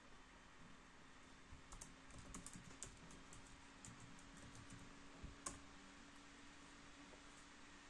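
Faint typing on a laptop keyboard: a quick run of key clicks from about two to three and a half seconds in, then one sharper click about five and a half seconds in, over a faint steady hum.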